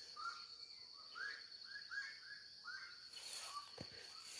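A bird repeating short chirping notes, about three a second, pausing about three seconds in, over a steady high-pitched tone.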